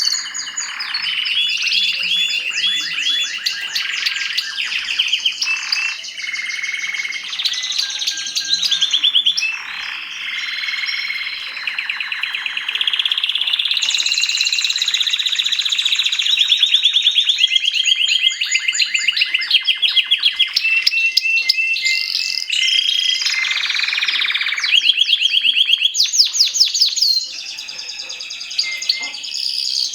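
Mosaic canary singing a long, continuous song of rapid trills and rolling runs of repeated notes, changing from one trill to the next every second or two.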